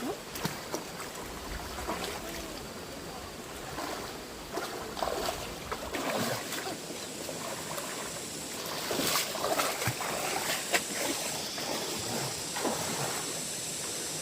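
Fast-flowing stream water rushing steadily, with irregular splashes and knocks throughout as water is disturbed.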